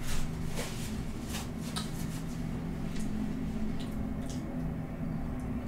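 Close-up eating sounds: wet chewing and mouth noises with scattered soft clicks, over a steady low hum.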